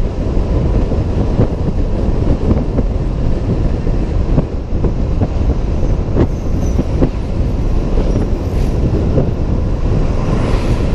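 Steady rumble of wind and road noise on a helmet-mounted camera while riding a Honda PCX 125 scooter, with a faint steady whine and scattered small clicks.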